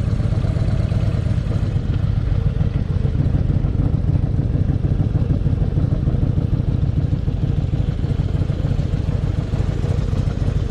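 Motorcycle engine running steadily at low revs, a constant low rumble with no change in pitch.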